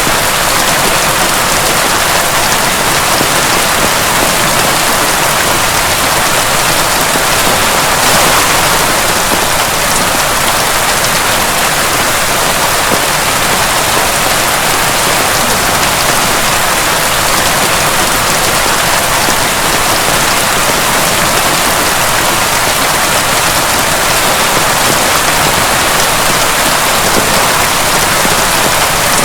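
Heavy rain pouring steadily, an even, unbroken hiss of falling water.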